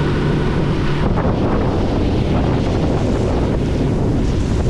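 Wind buffeting the microphone of a boat running under way, a loud steady roar, with a steady hum in about the first second that then sinks into the wind noise.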